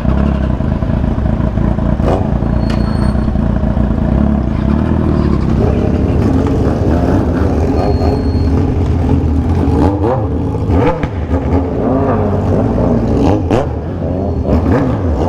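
Motorcycle engines with 3-inch aftermarket exhausts and remapped tuning running loudly. The engine note rises and falls in the second half, and a few sharp cracks come about 2, 10 and 13 seconds in.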